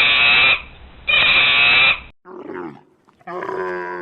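Animal calls in quick succession: two long, loud calls, a short call falling in pitch, then a longer, steadily pitched call starting about three seconds in.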